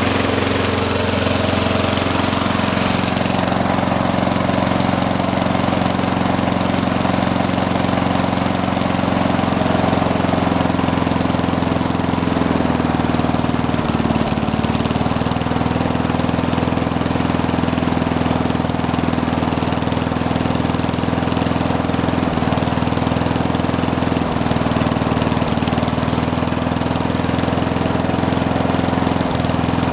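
Worn-out push mower's small single-cylinder engine running steadily after being fed dirt through the carburetor, its speed sagging briefly several times in the second half. Smoke is coming out of its crankcase breather, a sign of blow-by.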